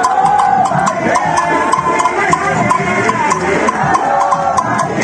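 Live procession music: voices singing together over a steady rhythm of sharp hand-percussion strikes.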